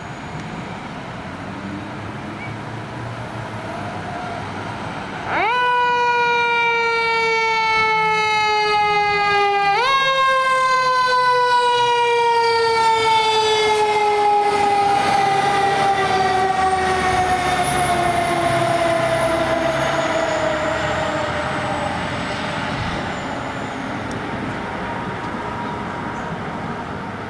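Fire truck's mechanical siren spun up twice: it rises sharply about five seconds in and starts to sag, is pushed back up about four seconds later, then winds down slowly and fades, over steady traffic and engine noise.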